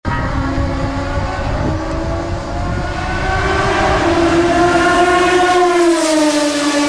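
Maserati MC12 GT1 Corsa's V12 engine running at high revs on track. The pitch climbs through the middle, then drops near the end.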